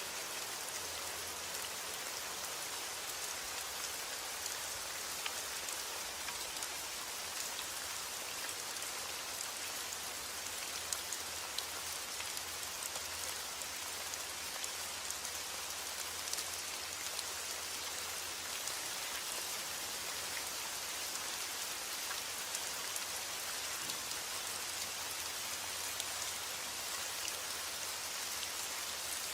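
Steady heavy rain falling on a roof, with the patter of individual drops picked out here and there and a faint low rumble underneath.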